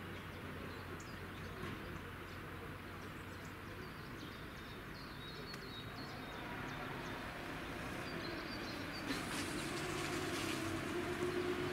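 A train drawing nearer on the line, its steady running sound growing louder over the second half, with a steady engine tone and sharp clicks near the end. Birds chirp faintly in the middle.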